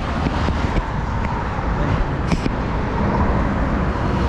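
Steady road traffic noise heard from a moving bicycle, with a short click about two seconds in.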